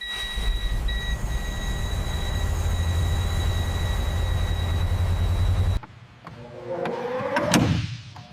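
A machine running with a steady low rumble and a high whine, which cuts off abruptly about six seconds in. Then comes a different mechanical sound with a sliding pitch and a sharp click near the end.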